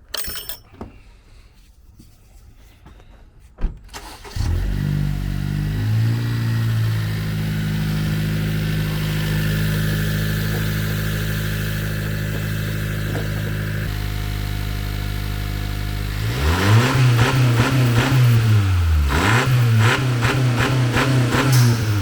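A 2017 Honda Civic Touring's 1.5-litre turbocharged four-cylinder starts about four seconds in and settles into a steady idle. Near the end it is revved twice, with the engine pitch rising and falling each time.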